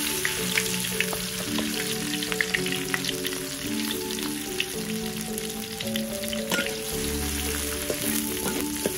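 Sliced garlic, shallots, onion and chillies sizzling in hot oil in a wok: a steady frying hiss with many small crackling pops.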